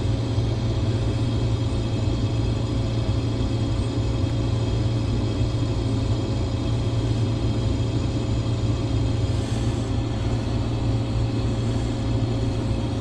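Combine harvester engine running steadily: a constant low diesel drone with a steady whine above it.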